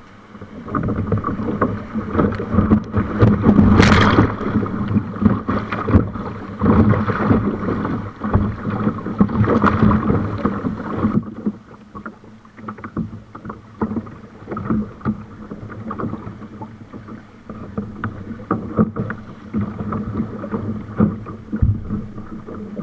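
Water splashing and rushing around a kayak on a river, with paddle splashes and knocks against the hull. It is loud and turbulent for the first ten seconds or so, then calmer, with scattered splashes.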